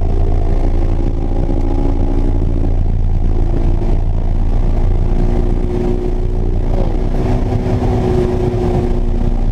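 AP1 Honda S2000's 2.0-litre inline-four engine running at fairly steady revs.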